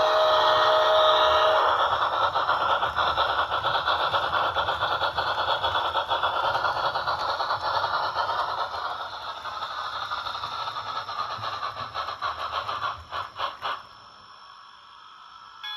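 Rivarossi HO scale steam locomotive model with a DCC sound decoder running: a steam whistle from the decoder ends about two seconds in, then steady rattling and clattering from the running loco that fades and stops near the end.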